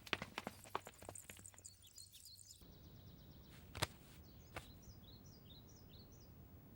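Quick footsteps, a rapid run of impacts that fades away over the first two seconds. Then a quiet outdoor scene with small birds chirping in short repeated calls, and two sharp single steps or knocks near the middle.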